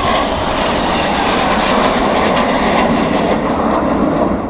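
Jet engine noise from nine BAE Hawk T1 jets flying past in close formation: a loud, steady rush that eases slightly near the end.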